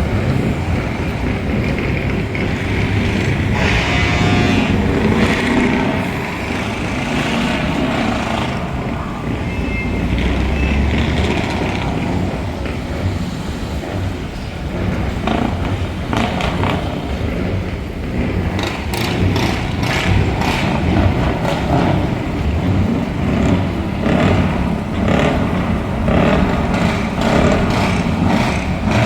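Truck V8 engine with open exhaust pipes running very loud and revving, the low rumble rising and falling. In the later part, a run of sharp cracks sounds over it.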